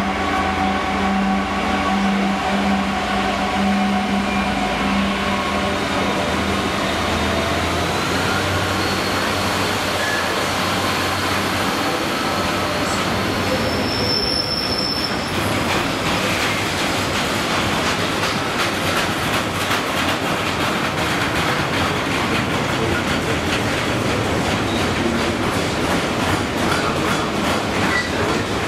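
A Class 66 diesel-electric locomotive, with its two-stroke EMD engine, passes at speed: its steady engine drone fades over the first several seconds. Loaded steel-coil freight wagons then roll past with a continuous rumble and a quick clatter of wheels over rail joints. There is a brief high wheel squeal about halfway through.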